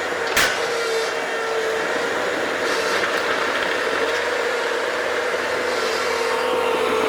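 Bobcat skid-steer loader running steadily with a constant whine, and a single sharp clank about half a second in.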